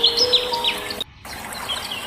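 Birds chirping with quick swooping calls over soft instrumental music of held notes; everything cuts out briefly about a second in, then the music returns quieter.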